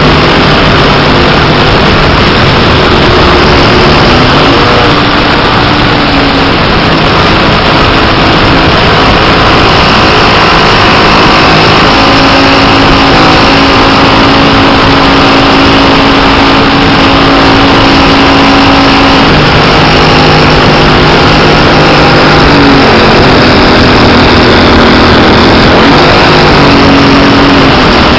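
Engine of a 1/5-scale Piper Cub radio-controlled model aircraft running under heavy wind rush at the strut-mounted microphone. Its pitch rises a few seconds in, holds higher through the middle, drops, then rises briefly twice near the end as the throttle is worked.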